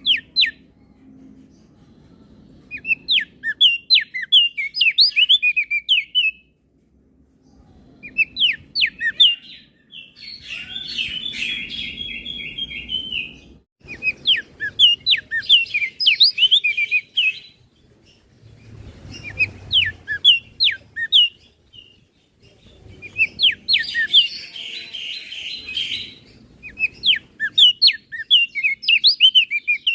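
Crested darkeye (opior jambul) singing: bursts of a few seconds of quick, high, down-slurred notes, some phrases running into a fast trill, with short pauses between the bursts.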